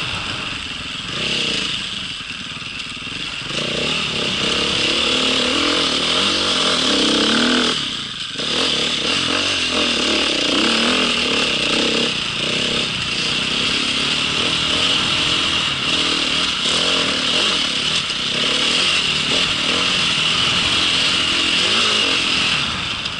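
Motocross bike engine running steadily as the bike is ridden, with a brief drop in the sound about eight seconds in.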